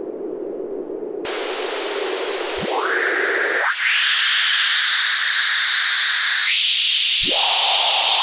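White noise through a Patching Panda Vibrazum Mk2 multi-band triple resonant filter. It starts as a narrow band of hiss at a low-mid pitch, then just over a second in the filter opens abruptly to full, bright hiss. Resonant peaks sweep upward through it twice, about three seconds in and again near the end.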